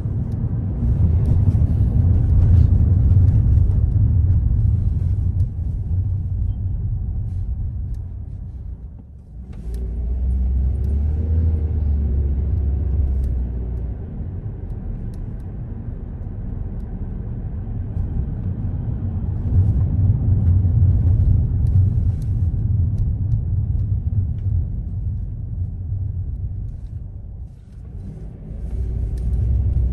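Car driving, with a steady low rumble of engine and road noise; the rumble drops away briefly twice, about nine seconds in and near the end, then comes back.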